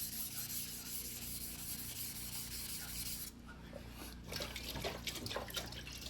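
Single-bevel white-steel fuguhiki sashimi knife being stroked back and forth on a wet whetstone, a steady gritty rubbing. About three seconds in it briefly drops, then goes on as more irregular scraping strokes.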